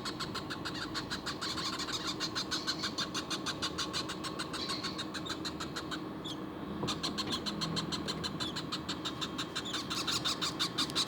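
Parrot chicks giving rapid, evenly repeated begging calls, several a second, with a brief break about six seconds in.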